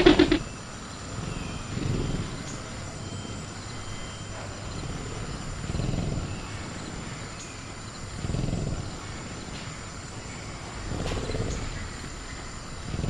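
Sound-effect velociraptor giving low, rumbling growls, four of them a few seconds apart. A brief rattle comes right at the start, and a faint steady high cricket-like tone runs underneath.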